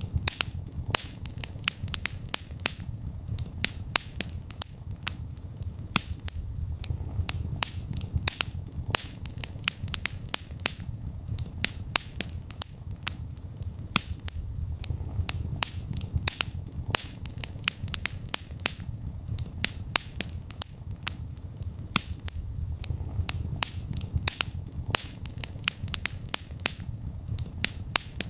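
Wood fire burning in a fireplace, crackling: many sharp pops and snaps, several a second, over a low steady rumble of the flames.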